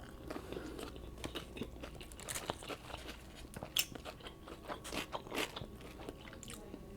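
Close-miked chewing and biting of food, with irregular wet crunches and mouth clicks.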